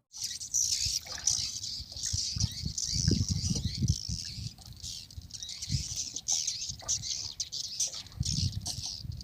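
A flock of swiftlets twittering overhead in a dense, continuous high-pitched chatter, with low thumps and rumble underneath.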